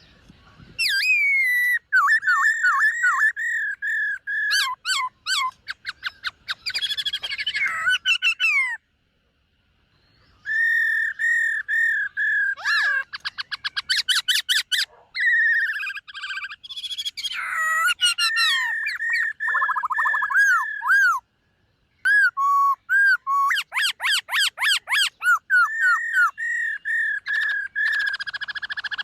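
Black-throated laughingthrush singing: loud whistled phrases with fast repeated notes and trills, broken by two brief pauses.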